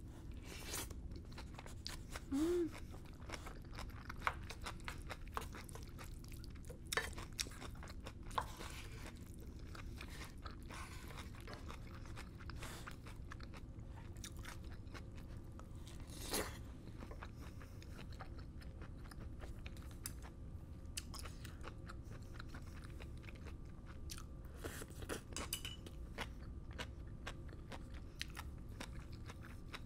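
Close-miked chewing of fried rice with black bean sauce, with a few sharp clicks of utensils on the pan and a short hummed "mm" about two seconds in.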